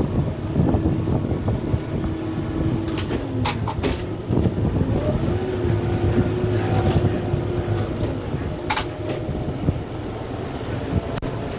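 Kubota M6-141 tractor's diesel engine running under load, its pitch sagging and rising as it works. Several sharp knocks cut through it, a cluster about three to four seconds in and more near the end.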